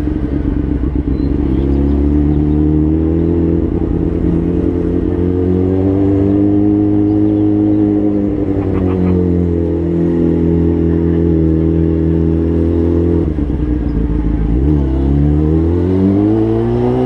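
Inline-four sport motorcycle engine running at a steady cruise, its pitch swelling and easing gently. About three-quarters of the way through the pitch drops briefly, then climbs steadily as the bike pulls away again.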